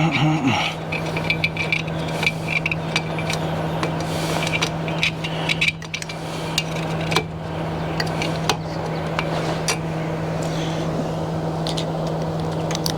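Scattered metallic clicks, clinks and knocks of hand tools and a vise working a steel pin into an awning's metal pivot, over a steady low hum.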